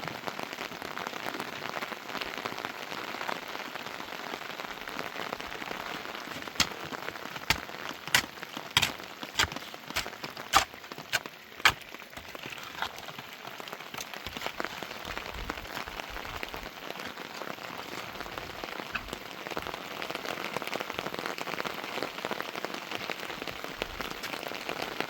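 Rain falling steadily. About a quarter of the way in, a run of about nine sharp taps comes roughly every half second, then stops.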